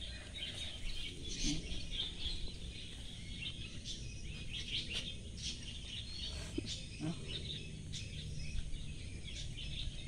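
Birds chirping in the background with many short, high calls, over a steady low rumble. A few brief low rising sounds come in about a second and a half in and again around two-thirds of the way through.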